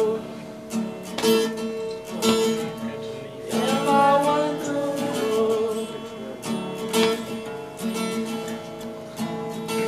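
Music: a strummed acoustic guitar with a voice singing a line near the middle.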